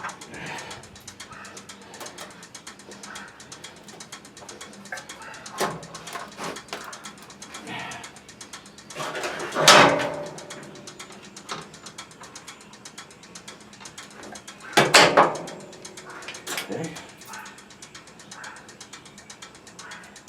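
Ratchet-like clicking of tools at work as a plastic valve is put back into a pressure washer, with two louder clatters about ten and fifteen seconds in.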